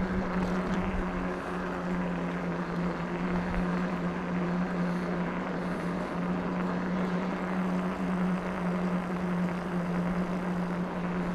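Electric bike motor humming steadily at a constant pitch while riding, over a hiss of wind and tyre noise.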